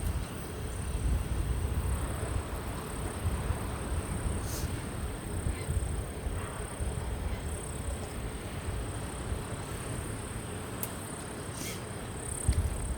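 Low, uneven rumbling of wind on the microphone, with a faint steady high-pitched whine throughout.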